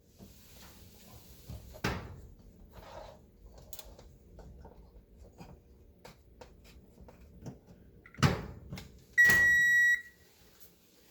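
A few knocks and handling bumps, then the Kenmore oven's electronic control gives one steady beep lasting just under a second as it powers up, the sign that the replaced control board is getting power.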